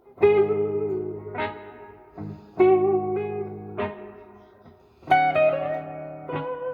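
Gibson SG Special electric guitar on its neck pickup, through a Fender Blues Jr IV tube amp, playing slow blues: single notes and double stops struck about once a second and left to ring and fade, with bent notes given vibrato near the start and again about two and a half seconds in.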